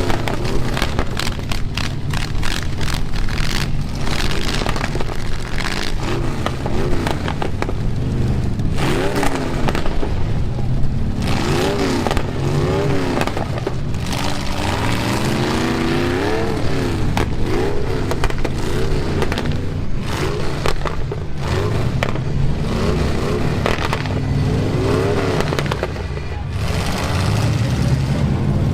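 Engines of gutted demolition-derby pickup trucks revving hard, rising and falling over and over in quick bursts as they ram each other. Frequent crunches and metal scraping come from the collisions.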